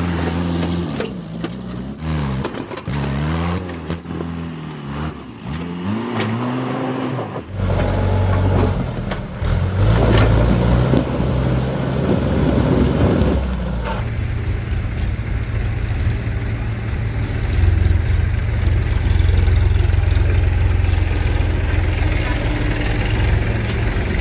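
Diesel engines of farm tractors and a backhoe loader running, their pitch rising and falling over and over for the first seven seconds. Then they settle into a steady low engine note, with a harsher, noisier stretch in the middle.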